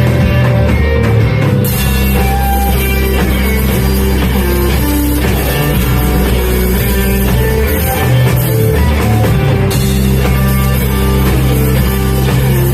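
Math rock band playing: electric guitar lines over bass and a drum kit. The cymbals fall silent twice, for a second or two each.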